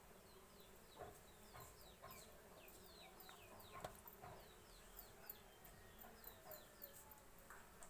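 Faint bird chirping: a steady series of short high notes, each falling in pitch, about three a second.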